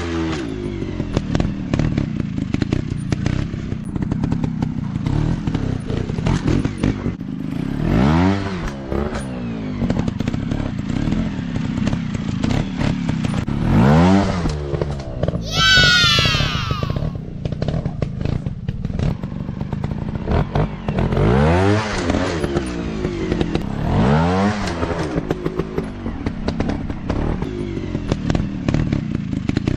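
Small dirt-bike engines running, revved up in bursts about five times, each a rising engine note that falls back. A brief high-pitched falling whine comes about halfway through.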